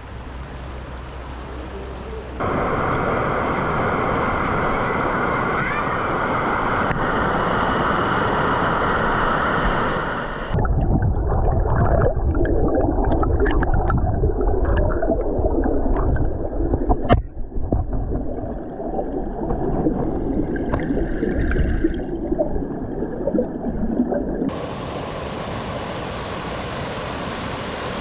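Rushing water heard in several spliced clips that change abruptly. About a third of the way in comes a long muffled, low stretch of gurgling with sharp clicks, then a steady even rush of water near the end.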